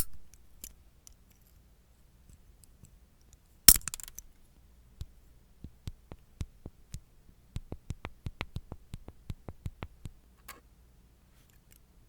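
A loud knock, then a run of small, sharp, hard taps and clicks at about four or five a second for several seconds, ending in a single click.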